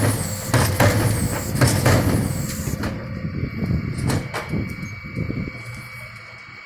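Dennis Eagle refuse truck at work emptying bins: a run of knocks and clatters over the truck's running engine for about three seconds, with a few brief falling squeals, then quieter running with an occasional knock.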